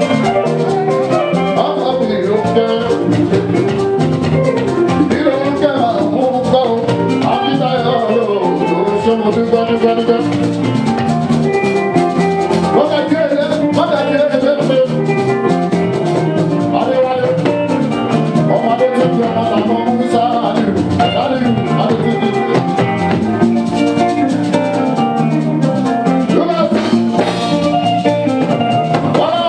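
Fuji band music playing steadily: drums and percussion under a melodic lead.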